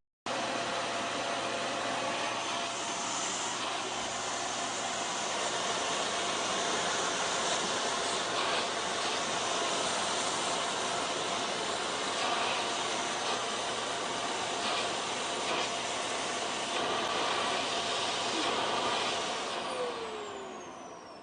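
Steady whooshing whir of a running electric appliance. It dies away near the end with falling tones, like a motor spinning down.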